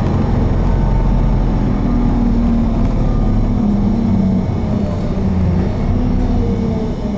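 Cabin running sound of an Isuzu Erga 2KG-LV290N3 diesel city bus under way. The engine note falls and rises a few times over steady road and tyre noise.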